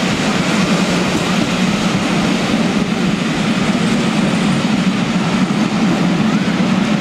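Passenger coaches of a steam-hauled train running past on the line below, a steady noise of wheels on rails.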